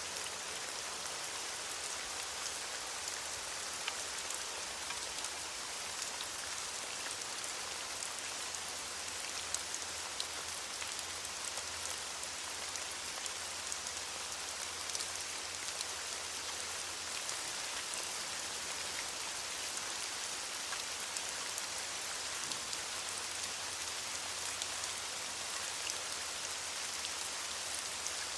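Steady rain falling on leaves: an even hiss with a patter of individual drops.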